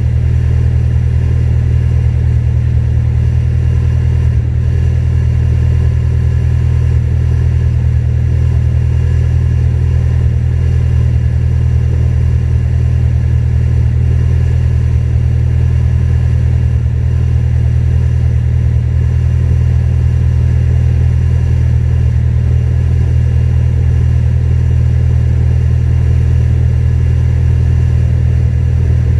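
Supercharged Acura TSX engine idling steadily through a J's Racing full titanium exhaust, holding an unchanging pitch throughout.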